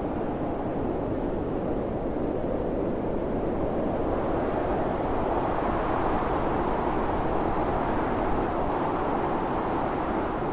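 Blizzard wind blowing steadily: a deep, even rushing that swells a little through the middle.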